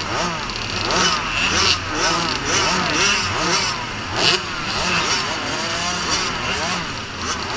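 Motocross dirt bike engines revving up and down, the pitch climbing and dropping about once a second as the bikes accelerate and shift.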